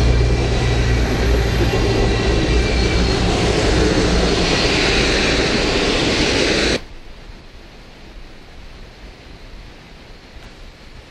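Passenger cars of a steam-hauled train rolling past on the rails and into a tunnel: a loud, steady rumble with a low hum and a hiss that swells about four seconds in. About seven seconds in it cuts off abruptly, leaving a much quieter steady rushing noise.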